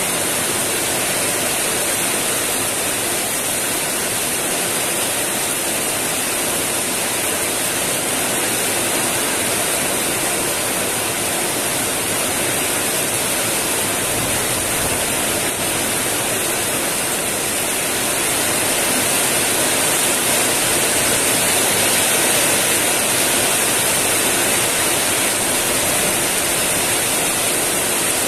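Heavy rain pouring steadily onto wet ground and puddles, a dense even hiss that grows a little heavier about two-thirds of the way through.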